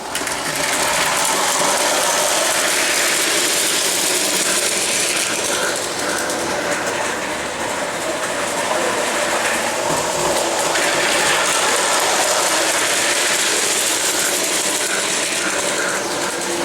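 Model train running on its track: a steady mechanical running noise of motor and wheels with small repeated ticks.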